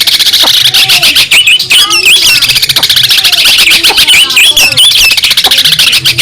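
Long-tailed shrike (cendet) singing a loud, fast, unbroken chattering song of rapid wavy, warbling notes.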